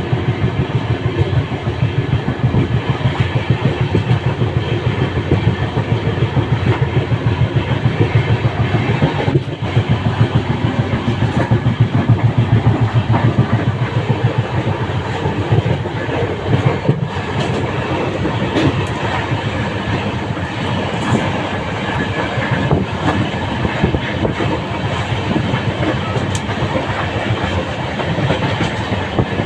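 Train running along the track, its wheels clattering over the rails in a continuous rapid clickety-clack, a little quieter in the second half.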